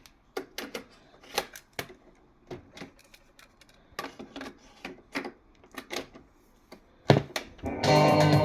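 Irregular plastic clicks and knocks from the controls of a Samsung PD-75S boombox being pressed while its music is stopped, with a louder knock near the end. Music starts playing again just before the end.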